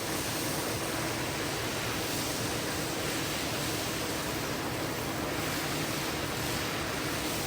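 Carpet-cleaning equipment running: a steady rushing, spray-like noise with a faint motor hum underneath, unchanging throughout.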